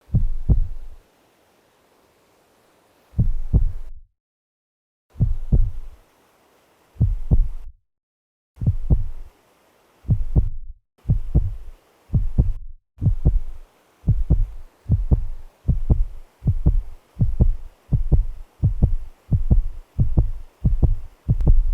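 Heartbeat sound effect: paired low thumps, slow at first with stretches of silence between them, then quickening into a steady, faster beat.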